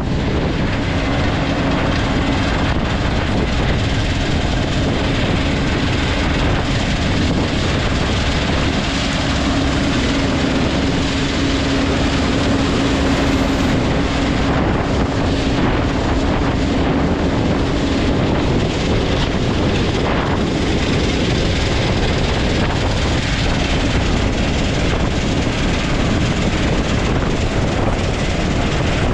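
A vehicle driving: steady engine drone and rumble, with a humming tone that fades out about two-thirds of the way through.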